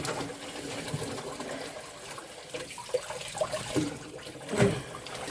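Tap water running steadily into a sink, splashing around a dog being bathed, with a brief louder sound about four and a half seconds in.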